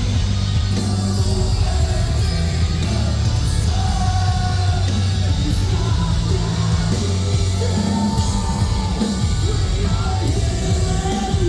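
Metalcore band playing live through a PA: heavy distorted guitars, bass and drums, with sung and shouted vocals over the top.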